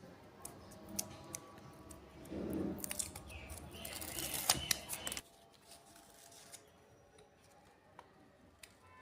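Scraping, rustling handling noise with scattered sharp clicks, loudest from about two to five seconds in and then dying down.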